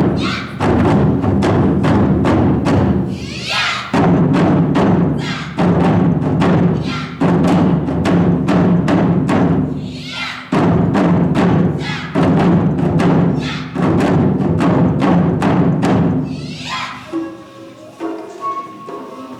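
Japanese taiko drums beaten in a fast, driving rhythm with heavy low booms. About seventeen seconds in the drumming drops away and softer pitched notes of another instrument carry on.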